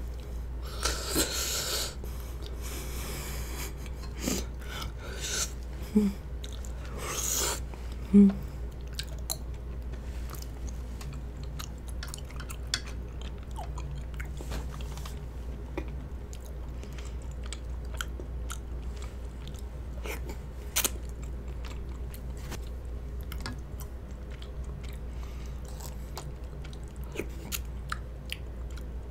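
Close-miked eating of chewy rice cakes in spicy broth: steady wet chewing with frequent small mouth clicks, and a few louder noisy bursts in the first eight seconds.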